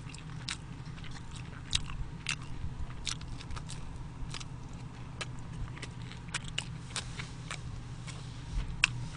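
Close-miked eating sounds: chewing and mouth clicks and smacks while eating jjajangmyeon noodles, scattered irregularly over a steady low hum.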